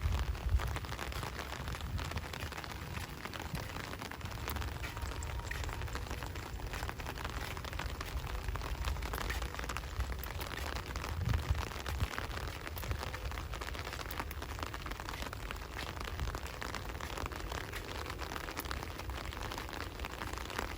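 Steady rain falling, many close drops pattering over a low rumble, with a dull thump about half a second in and another about halfway through.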